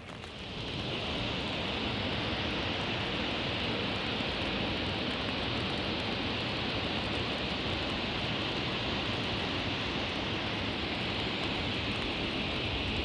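Steady, even hiss of heavy rain, building up over the first second and then holding level.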